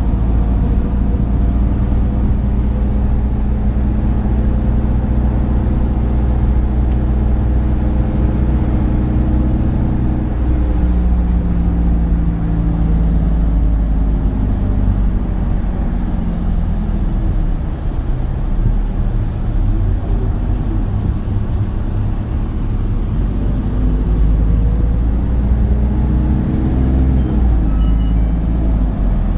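Isuzu Erga city bus (2RG-LV290N3) heard from inside the cabin, its four-cylinder turbo diesel running under way. The engine note holds steady, falls away and quietens in the middle, then climbs again near the end.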